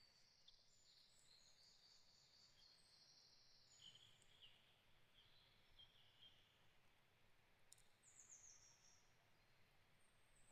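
Faint forest birdsong: high chirps and trilling phrases, with a quick run of falling notes about eight seconds in.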